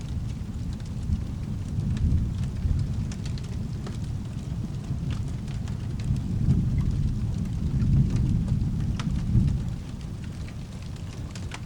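Steady rain with rolling thunder, a deep rumble that swells about six seconds in and dies down shortly before the end. Scattered sharp clicks come through the rain.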